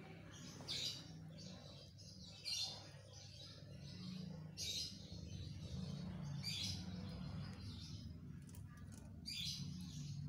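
Short high chirps, about one every two seconds, over a low steady hum.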